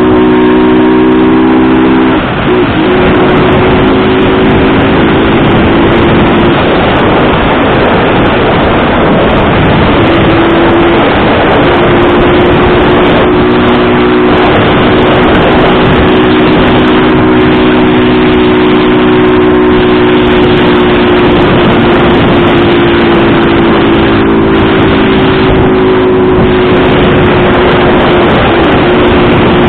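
Motorcycle engine running steadily under heavy wind noise on the microphone while riding, with its pitch shifting about two seconds in and again around eleven seconds.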